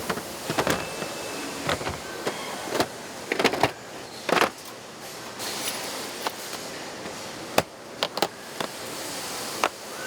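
Irregular sharp clicks and knocks of tool parts being handled and fitted during electric drill chuck assembly, over a steady factory background hum.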